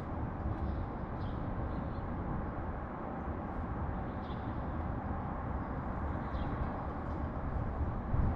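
Steady low rumble of distant city traffic, with a few faint, short chirps from small birds scattered through it.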